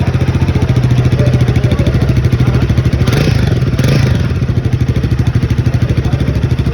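Royal Enfield Guerrilla 450's single-cylinder engine running at a steady idle, its exhaust note pulsing evenly.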